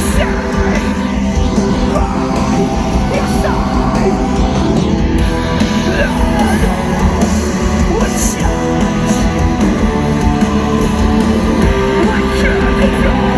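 A live band playing loud rock music with electric guitars, steady and unbroken.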